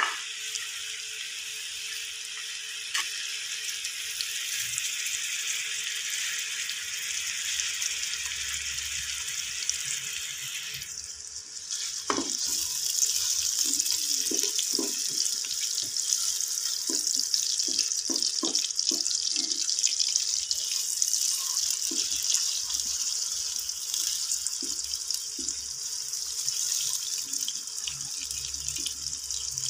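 Chopped onions frying in oil in a nonstick pan, a steady sizzling hiss. The hiss grows louder about twelve seconds in. After that, a spatula scrapes and taps against the pan in short, irregular strokes.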